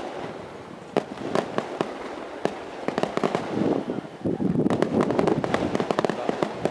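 Aerial fireworks bursting: separate sharp bangs in the first few seconds, then a dense run of quick reports and crackling from about four seconds in.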